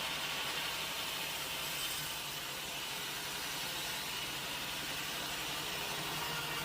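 Sawmill machinery running steadily, a constant motor hum under an even hiss, with no distinct cuts or impacts.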